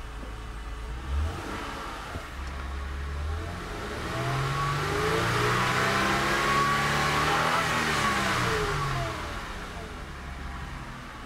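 Honda car engine revved while parked, heard from inside the cabin. The revs climb over a few seconds, hold briefly, then fall back toward idle near the end.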